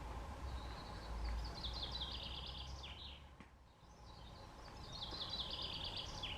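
A songbird singing two phrases, each about two and a half seconds long: a run of quick high notes that steps downward and ends in a short falling note. A steady low rumble runs underneath.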